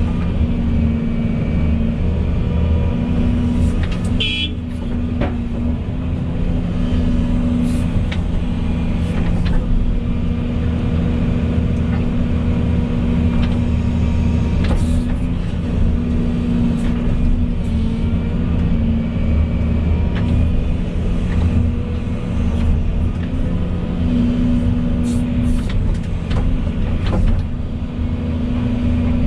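Volvo EC220E excavator's diesel engine running steadily under working load, its pitch holding while the level swells and eases, with occasional light clicks and a brief high squeak about four seconds in.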